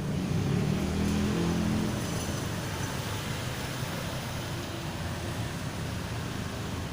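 Low hum of a motor vehicle engine, louder for the first two seconds and then fading into a steady hiss.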